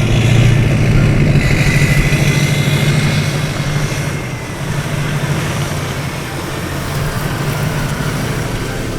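A car engine and road noise while driving, with a steady low engine hum that eases off a little about halfway through.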